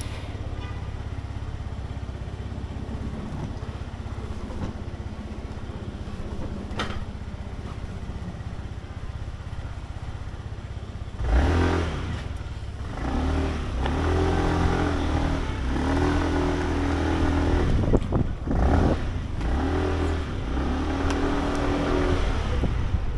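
Sym Jet X 125 scooter's single-cylinder engine idling steadily, then about eleven seconds in suddenly revving up as the scooter pulls away, its pitch rising and falling with the throttle.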